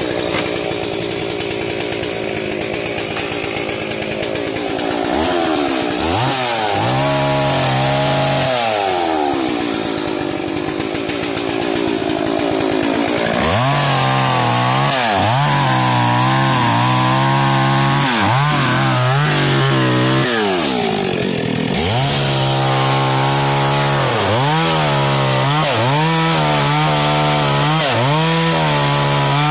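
Top-handle two-stroke chainsaw cutting wood, its engine pitch dropping under load and climbing back again and again, more often in the second half.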